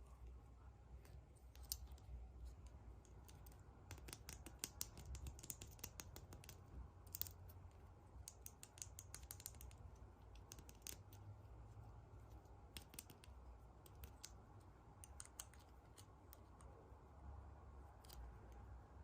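Faint clusters of quick clicks and crinkles from surprise eggs being unwrapped and small plastic toys and capsules being handled, with quieter gaps between the flurries.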